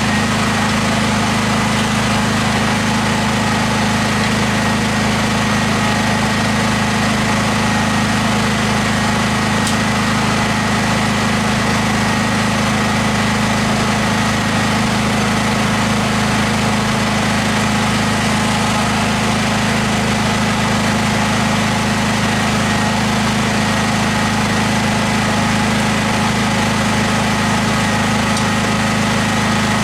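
Portable generator's small engine running at a steady speed, an even unbroken drone with a constant hum.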